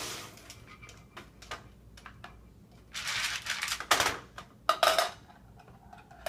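Small hard objects rattling and clattering inside a bucket as it is shaken, after a few light clicks; the shaking starts about three seconds in and comes in several short bouts.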